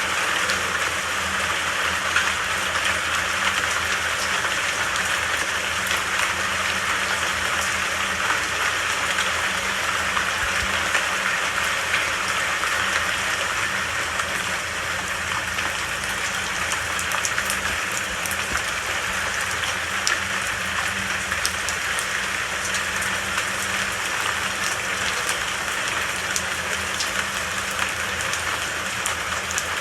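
Steady rainfall: a continuous, even hiss of falling rain with a low rumble underneath.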